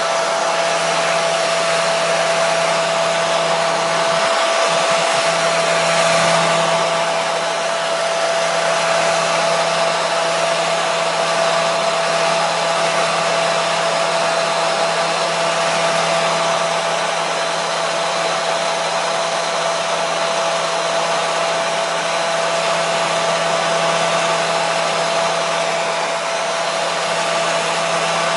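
Hair dryer running steadily: a constant rush of blown air with a steady whine from the motor and fan, unchanging throughout.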